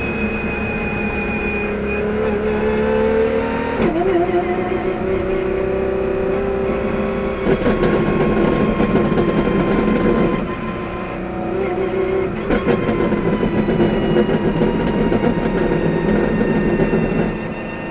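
De Tomaso P72 prototype's 6.3-litre naturally aspirated V12 running hard under load, its pitch breaking abruptly at a gear change about four seconds in. A cluster of sharp crackles comes around the middle, and the engine eases off briefly before pulling again.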